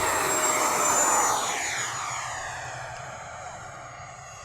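Electric ducted-fan RC model jet making a fast pass, a rushing noise with a high fan whine. It is loudest about a second in, then the whine drops slightly in pitch and the sound fades as it flies away.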